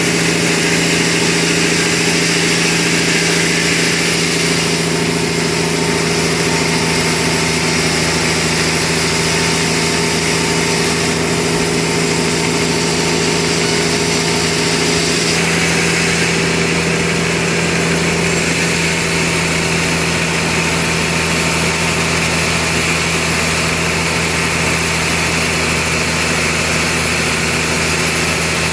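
Sawmill machinery running steadily: a constant engine-driven hum with a high hissing saw noise that shifts in character a few times.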